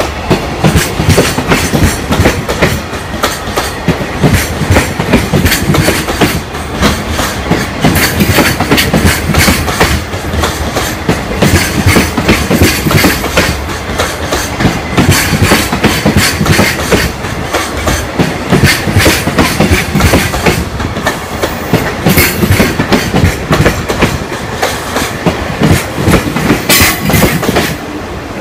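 A freight train's container flatcars rolling past, loud, their steel wheels clattering over the rail joints in a continuous stream of knocks.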